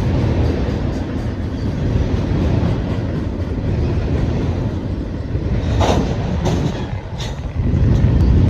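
Train cars rolling past: a continuous low rumble of wheels on rail, with three sharp metallic clanks about six to seven seconds in.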